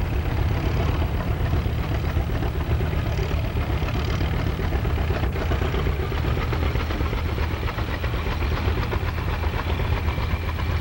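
Antique farm tractor engine running steadily, a rapid firing beat over a heavy low rumble.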